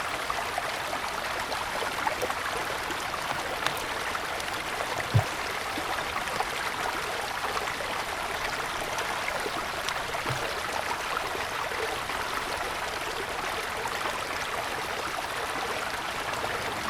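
Small mountain stream flowing steadily over snow-covered stones, an even babble of running water. A brief low thump comes about five seconds in, and a fainter one near ten seconds.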